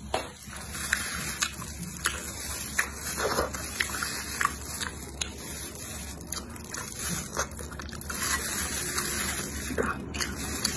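Close-up wet chewing and lip-smacking on braised pig trotters and chicken feet, with many short sharp clicks and squelches over a steady hiss.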